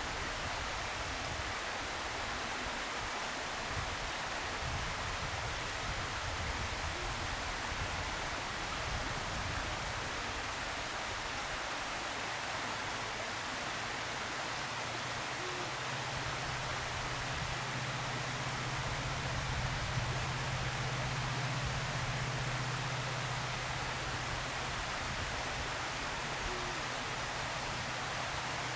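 Steady hiss of outdoor background noise, with a low steady hum coming in about halfway through and holding.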